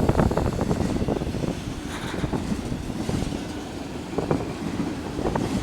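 Railroad cars rolling past: a steady low rumble with the clickety-clack of wheels over rail joints, clacks at the start and again twice near the end.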